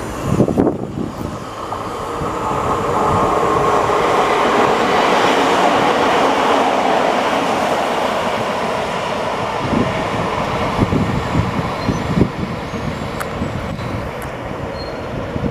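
A train passing through the station: a loud rushing rumble of wheels on rail that builds over the first few seconds and then holds steady, with scattered knocks and clatter in the later part.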